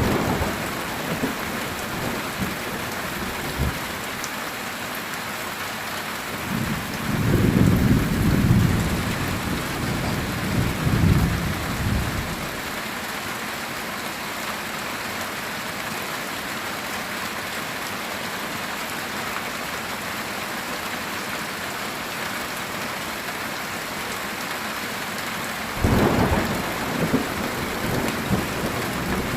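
Heavy rain falling steadily on a metal tin roof, with rolling thunder rumbling twice: a long roll about a quarter of the way in and another near the end.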